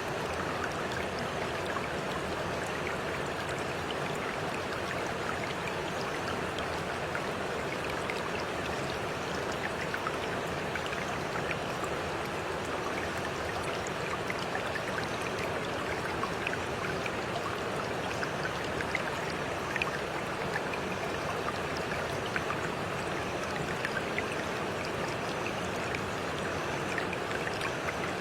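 A stream running steadily, with many small splashes and trickles throughout.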